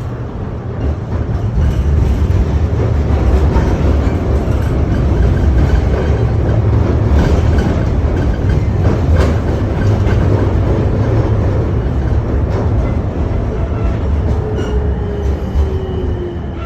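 KTM-31 tram running along the track, heard on board: a steady heavy rumble of wheels on rails with scattered clicks over the rail joints. Near the end a whine slides down in pitch.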